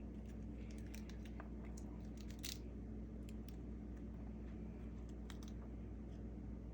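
Scattered light clicks and ticks, one sharper about two and a half seconds in, over a steady low hum.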